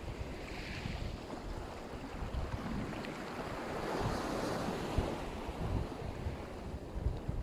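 Black Sea surf washing onto the shore, with wind buffeting the microphone in low thumps. A wave's wash swells up about four seconds in and then eases.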